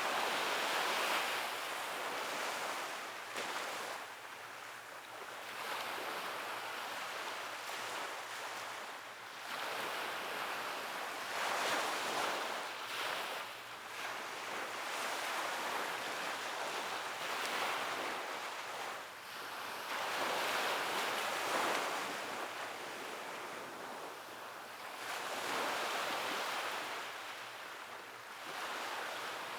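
Waves breaking and washing on a beach, a continuous hiss of surf that swells and eases every few seconds.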